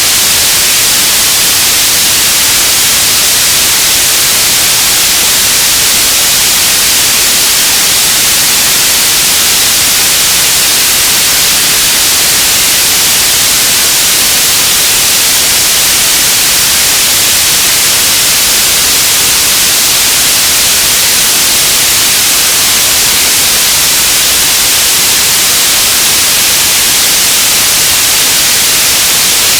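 Radio static: a loud, steady hiss, strongest in the treble, with no tones or breaks.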